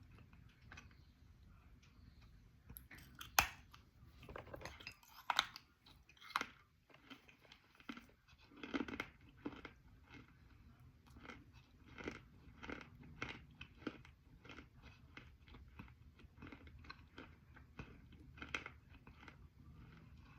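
Crunchy baked eating clay bitten and chewed close to the microphone. A few sharp crunches come in the first several seconds, then steady rhythmic chewing, about one and a half strokes a second, as the clay grinds down.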